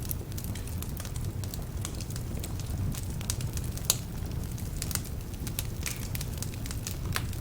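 Wood fire burning in a fireplace: a steady low rumble of flame with frequent irregular crackles and pops from logs that are partly damp, and one sharper pop about four seconds in.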